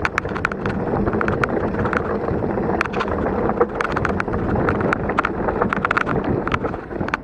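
Mountain bike riding down a loose, rocky trail: tyres grinding over stones with a constant run of sharp, irregular clicks and rattles from rocks and the bike, and wind buffeting the microphone.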